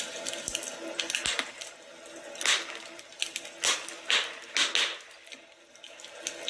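Wood fire in a fireplace crackling, with irregular sharp pops and snaps, several louder ones about a second apart.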